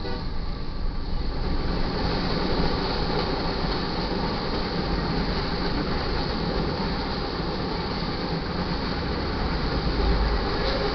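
Freight cars of a mixed manifest train rolling past over a grade crossing: a steady noise of steel wheels on the rails.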